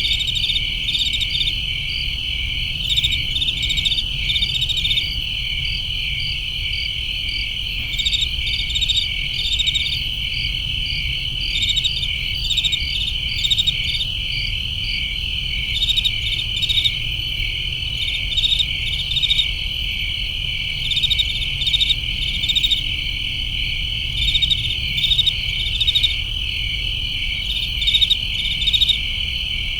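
Crickets chirping in a summer night chorus: a steady high trill, with louder pulsed chirps over it in short groups every second or two. A faint low rumble runs underneath.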